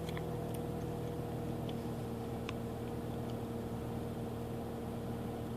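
Mazda RX-8's twin-rotor Renesis rotary engine idling steadily while still cold, an engine with low compression. A few faint ticks sound over the steady hum.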